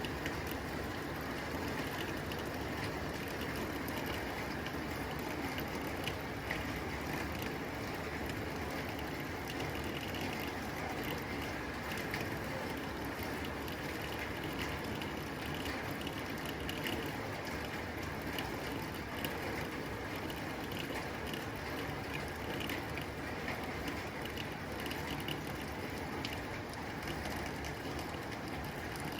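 Rain falling steadily on a tin roof: a dense, even stream of small drop impacts on the metal.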